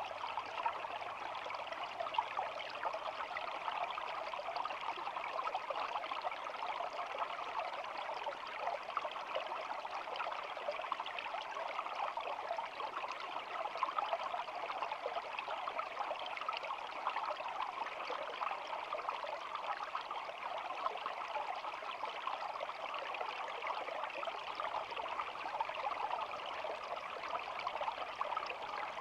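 Shallow stream babbling steadily: an even, continuous rush of flowing water with fine trickling detail.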